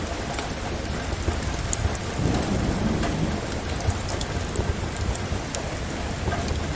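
Steady rain falling, mixed with the sharp crackles and pops of a wood fire in a fireplace. A low rumble of distant thunder swells about two seconds in.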